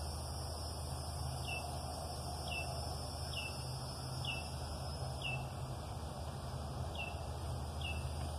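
A bird gives a short, high call, each one dropping slightly in pitch, repeated about once a second over a steady drone of insects.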